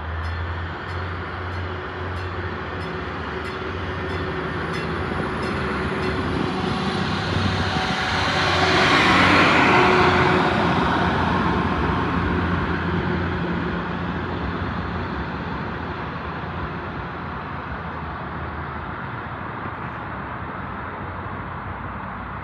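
A passenger train passing by: its rumble builds to a peak about nine to ten seconds in, then fades slowly as it moves away.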